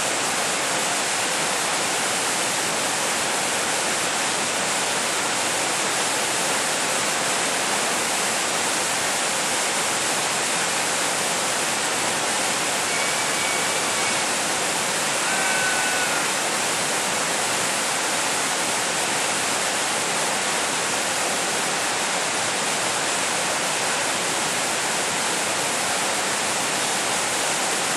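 Steady rushing water, an even unbroken hiss, as from a waterfall or weir. A couple of faint short whistles come through near the middle.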